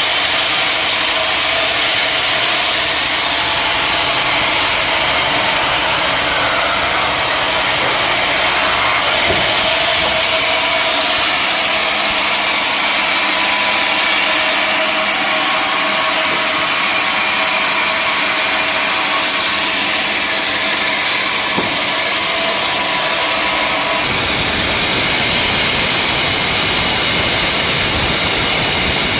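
Sawmill machinery running steadily, a loud mechanical hum and hiss with a few steady tones; the low rumble grows heavier near the end.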